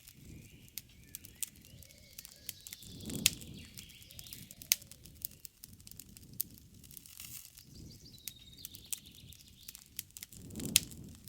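Wood campfire crackling, with frequent sharp pops and two low rushes of flame, about 3 seconds in and near the end. Birds chirp faintly in the background.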